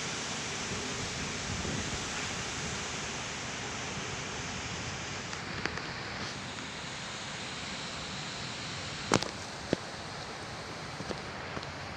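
Heavy wind blowing steadily, an even rushing noise with no let-up. A few sharp clicks or taps sound over it, the loudest about nine seconds in.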